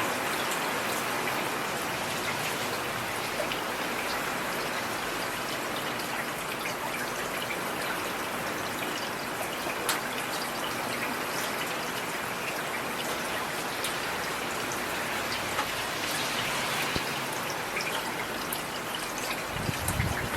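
Steady rain falling on a street: an even, continuous hiss with individual drops and drips ticking through it. A brief low rumble comes in near the end.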